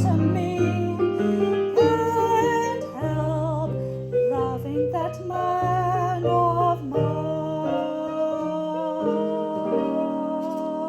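Live music: a woman singing over instrumental accompaniment, with wavering sung notes early on and long held notes in the second half.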